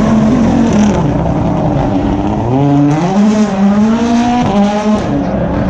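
Rally car engine revving hard, its note climbing, dipping as the revs drop and climbing again, then falling away about five seconds in.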